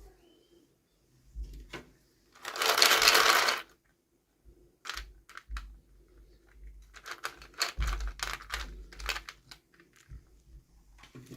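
Small toy and plastic packaging being handled: a burst of crinkling or tearing about two and a half seconds in, then a run of light clicks and taps.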